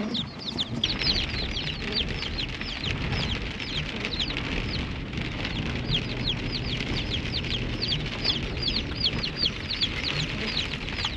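A box of mail-order baby chicks peeping non-stop: many high, short peeps that slide downward, several a second and overlapping.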